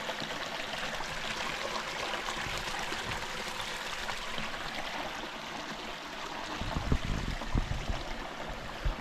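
Small creek running over rocks, a steady rush of water. Near the end, a few low thumps sound over it.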